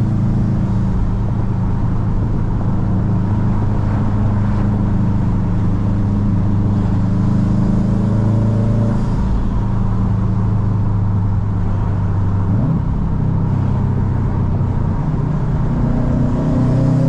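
Modified car's engine running steadily while driving, a low even drone. About twelve seconds in the engine note jumps briefly and settles lower, then rises again near the end, as the revs change.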